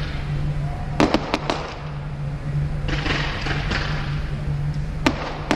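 Fireworks going off: a quick run of four sharp bangs about a second in, a stretch of crackle around three seconds in, and two more bangs near the end, over a steady low hum.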